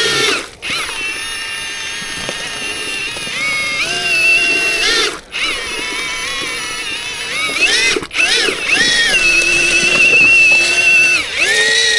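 Electric paddle mixer churning wet concrete, its motor whine rising and sagging in pitch as the load changes. It stops briefly three times as the trigger is let off and squeezed again.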